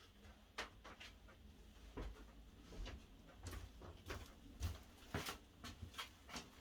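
Faint, irregular light clicks and knocks, a dozen or so, of small objects being handled.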